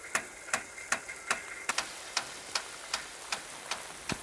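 Rain gun sprinkler's impact arm clicking in a steady rhythm, about two and a half clicks a second, over a faint hiss of spray.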